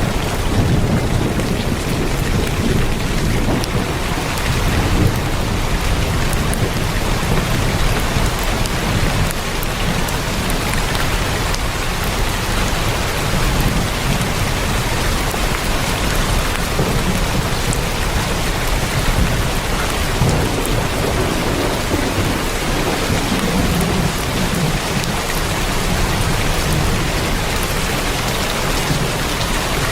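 Heavy rain drumming steadily on a tin roof, a dense unbroken patter with a low rumble that swells and fades underneath.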